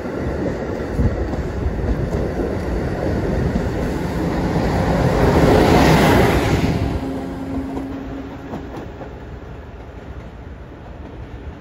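Amtrak Acela passenger train running past along the platform, its rumble and wheel noise building to the loudest point about six seconds in, then fading away.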